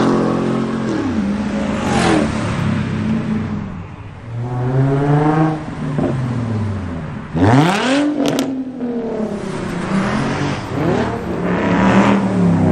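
Car engines revving and accelerating away one after another, the pitch climbing and dropping with each gear change. About seven and a half seconds in, one car revs hard with a steep rising pitch, followed by a few sharp exhaust cracks.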